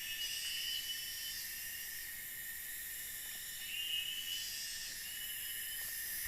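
Steady, high-pitched chorus of forest insects such as crickets and cicadas, made of several even whining tones. Two trilling calls swell louder briefly, once near the start and once about four seconds in.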